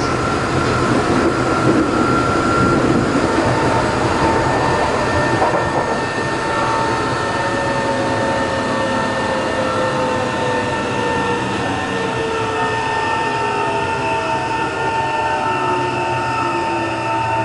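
Interior running sound of a Tokyo Metro 03 series chopper-controlled electric train, in a car whose motor has a slight abnormal noise. A steady chopper whine sets in a few seconds in, while the motor and gear tones slide down in pitch over the wheel-and-rail noise as the train slows.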